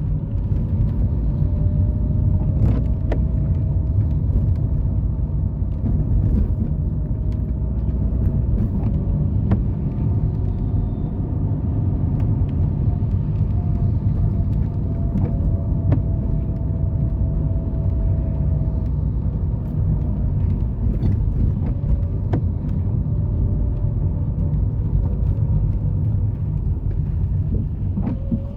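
Steady low rumble of a car driving, with a faint wavering whine above it and a few light clicks.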